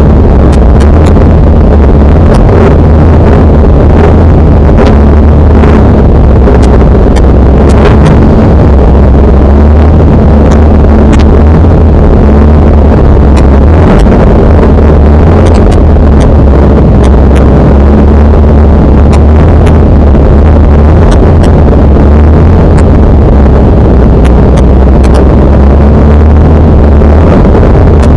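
Folk-rally car's engine idling steadily, heard from inside the cabin: a heavy low rumble loud enough to saturate the recording, with scattered sharp clicks.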